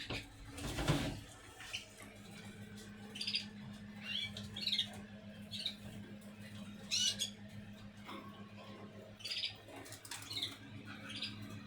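Caged canaries giving short, scattered chirps and calls, over a steady low hum. A brief burst of noise comes about a second in.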